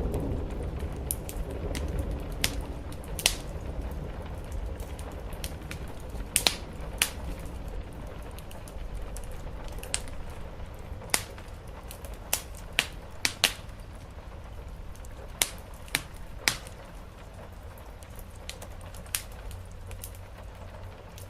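Wood fire crackling in a fireplace, with irregular sharp pops and snaps. Under the crackle is a steady hiss and low rumble of rain. A deeper rumble dies away in the first couple of seconds.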